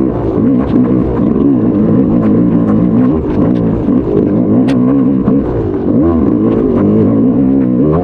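Motocross bike engine revving hard under race load, its pitch climbing and dropping again and again as the throttle is opened and shut, with scattered sharp clacks.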